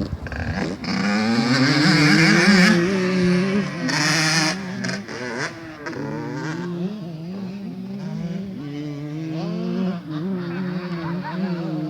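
Two-stroke motocross bike engines revving hard and backing off, their pitch repeatedly rising and falling as the bikes ride the track. The engines are loudest in the first few seconds and a little quieter after.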